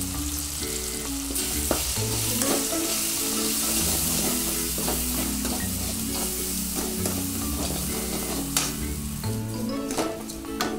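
Oil sizzling in a metal kadai as red chilli powder goes into the frying onion and tomato masala, with a steel ladle stirring and scraping through it. The ladle knocks sharply against the pan several times, loudest near the end.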